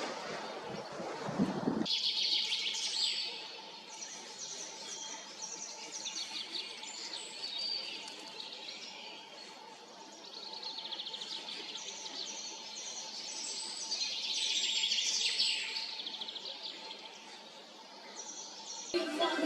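Small songbirds singing: quick series of high repeated notes and trills, loudest in two stretches. The song starts about two seconds in, after a short stretch of low noise.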